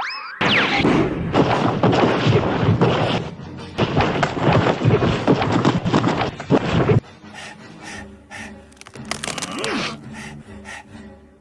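Cartoon fight sound effects over music: a rapid, dense flurry of thuds and hits for about seven seconds, then it drops to quieter music with a short sliding tone near the end.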